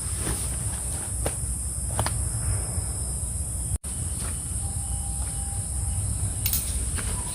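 Steady high-pitched drone of a forest insect chorus, with a low background rumble and occasional small clicks. The sound cuts out for an instant about halfway through.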